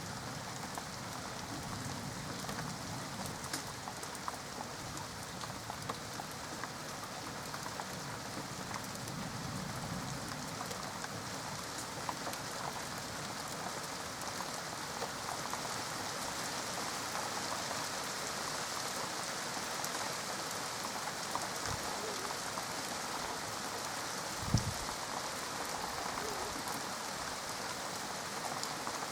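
Steady rain falling during a thunderstorm, with fine scattered drop ticks. A single short low thump sounds about two-thirds of the way through.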